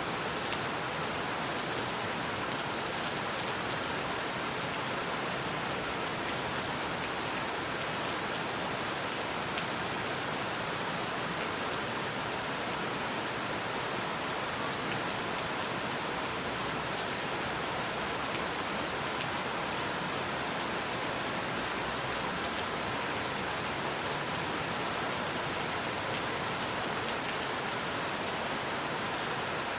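Steady rain falling, a dense even hiss with fine patter of individual drops.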